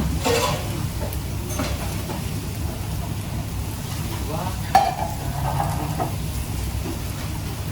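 Food frying and sizzling in a pan while being stirred, over a steady low rumble. There are sharp clatters of a utensil on the pan, the loudest a little before five seconds in.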